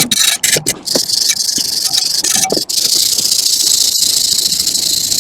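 Cleaning the rusty face of a car's wheel hub: a few short scraping strokes, then a dense, steady hiss.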